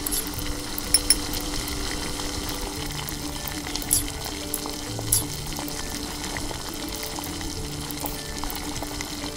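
Steady sizzling hiss over soft background music, with a few light clicks.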